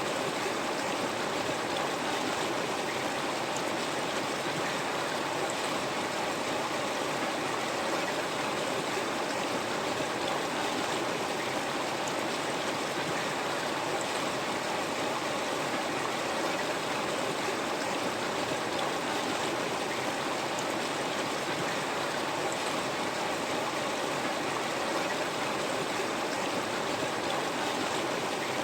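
River water flowing over rocks, a steady, unbroken rushing and gurgling.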